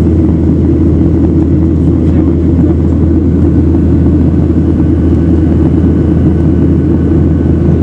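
Jet airliner's engines and airflow heard from inside the passenger cabin: a loud, steady, deep rumble that holds without change.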